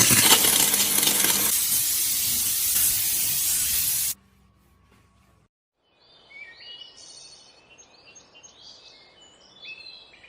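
Loud steady hiss of a spray or air jet that cuts off suddenly about four seconds in. After a brief pause, birds chirp over faint background noise.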